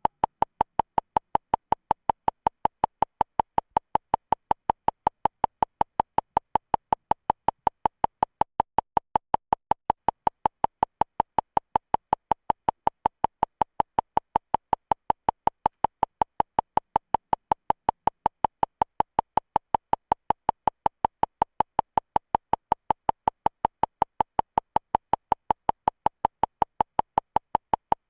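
A rapid, evenly spaced train of short electronic beeps, about four or five a second, all on the same mid-high pitch, repeating without letup.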